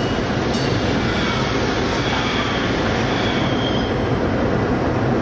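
Caltrain train running alongside on the next track, heard from inside a moving car as a steady rumble mixed with road noise. A faint high squeal comes in near the middle.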